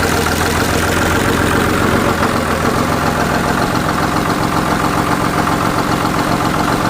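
1999 Cummins 5.9-litre 24-valve inline-six turbodiesel idling steadily, running on its first start after a rebuild.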